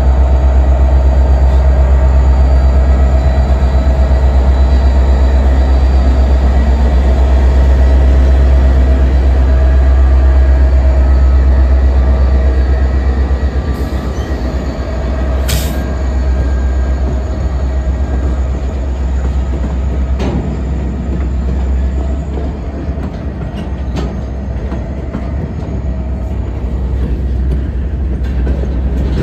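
Union Pacific GP60 and GP40-2 diesel locomotives, EMD two-stroke V16s, passing close at slow speed with a heavy engine rumble. The rumble eases about halfway, as the freight cars roll by with a few sharp clanks and a brief high-pitched screech.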